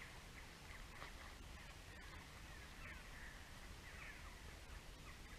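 Faint outdoor ambience with distant bird calls: scattered short chirps and a few falling calls, over a low rumble.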